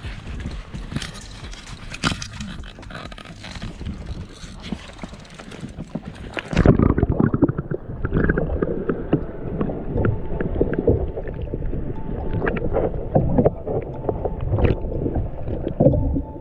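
Water sloshing and slapping against a kayak's hull, with scattered knocks. About six seconds in the sound abruptly turns muffled and heavier in the low end.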